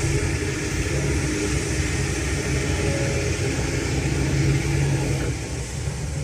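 Kobelco SK210LC excavator's Hino J05E-TG four-cylinder turbo-diesel engine running at a steady speed, easing slightly in level near the end.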